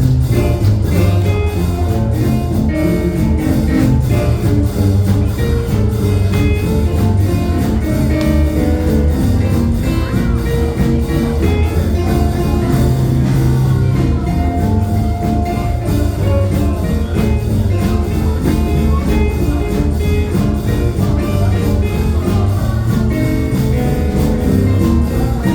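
A live jazz band playing, with a steady beat.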